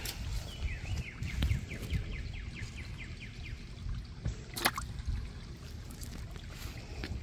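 Outdoor background of low rumbling noise. About a second in, a bird sings a trill of quick falling notes for roughly two seconds, and a single sharp click comes about halfway through.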